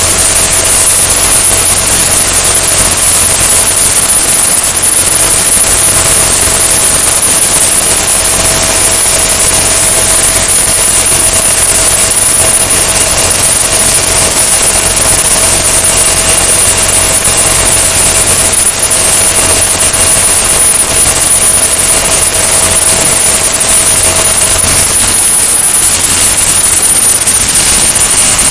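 AgustaWestland AW109E Power twin-turbine helicopter running at full power, with a loud steady rotor and turbine noise and a thin high turbine whine throughout. A lower steady tone in the sound drops out near the end.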